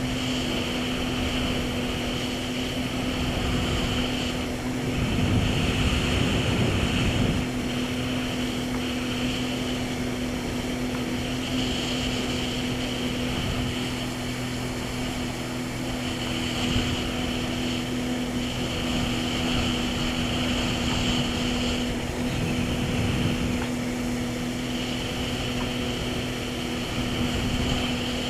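Jet ski engine running steadily while cruising, a constant engine hum with a steady whine above it.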